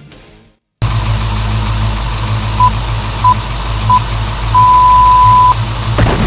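Monster-truck engine rumbling steadily under a race-start countdown: three short beeps, then one long beep at the same pitch. A sudden thump comes near the end.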